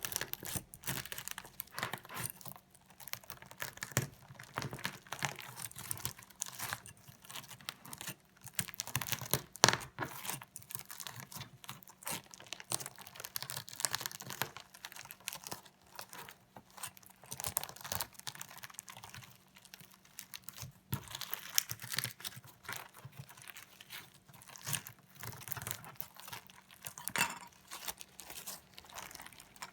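Slime with sequins mixed in, worked with a fork: a steady run of irregular crunching and crackling clicks.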